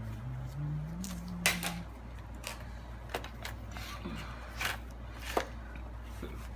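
Scattered clicks and knocks of plastic and metal laptop parts being handled during disassembly, the sharpest about a second and a half in.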